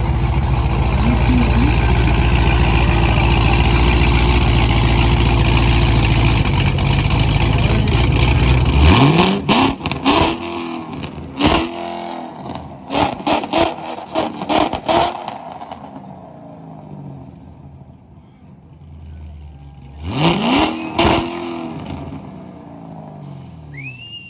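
A car engine is held loud at high revs for about nine seconds, then let off. It is then blipped hard several times, each rev rising and falling quickly, with a further pair of blips later on. Near the end there is a short high whistle.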